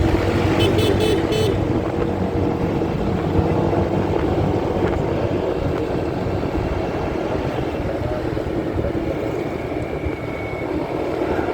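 Motorcycle riding noise picked up by a phone in a pocket: steady, muffled engine hum and road and wind rumble. A short burst of rapid clicks sounds near the start.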